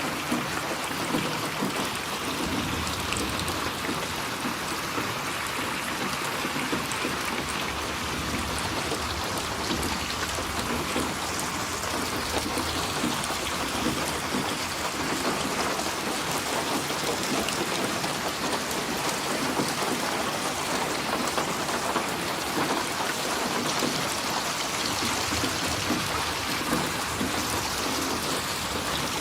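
Rain falling steadily, an even hiss of drops that keeps the same level throughout.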